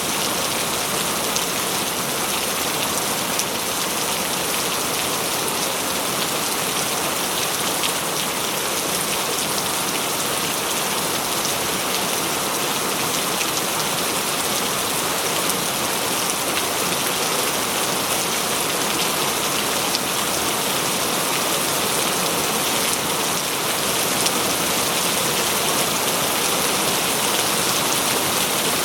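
Steady, heavy rainfall: a constant even hiss of many fine drop impacts, with no thunder.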